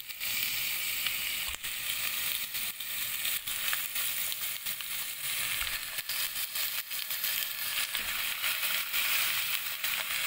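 Raw chicken wings sizzling in hot oil as they go into a pot of toasted garlic and onion, a steady frying hiss with scattered clicks and knocks.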